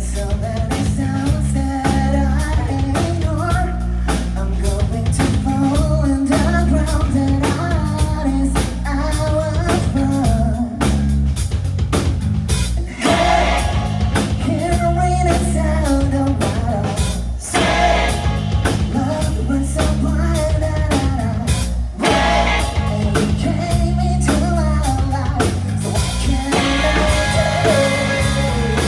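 Rock band playing live: a singer over drum kit and electric guitar, loud and steady, with brief drops in the drums a few times.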